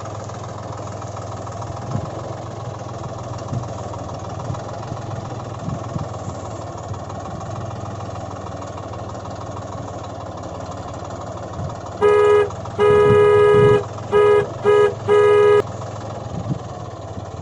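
Tractor engine sound running steadily at a low hum. About twelve seconds in, a horn honks five times: a short toot, a long honk, then three short toots.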